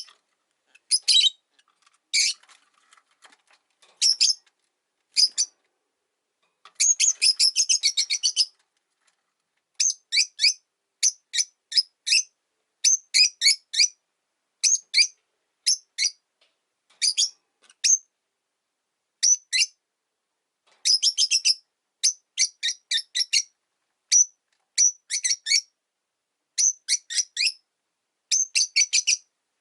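Rosy-faced lovebirds chirping: short, sharp, high-pitched calls, some single and some in quick runs of several, with a longer rapid run about seven seconds in.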